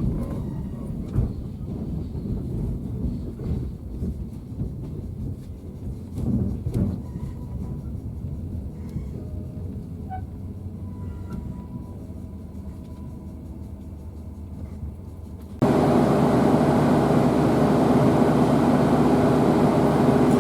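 Train running on rails: a low rumble with scattered knocks. About 15 seconds in, a cut leads to a louder, steady running sound with a hum.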